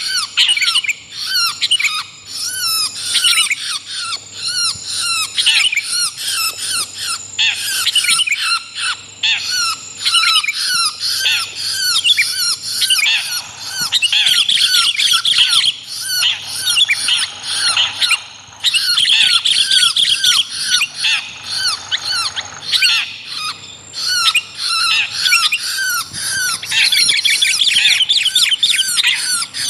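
Bird-lure recording mixing long-tailed shrike calls with sooty-headed bulbul chatter. It is a dense, unbroken stream of rapid short notes, several a second, with a few noisier, scratchier stretches.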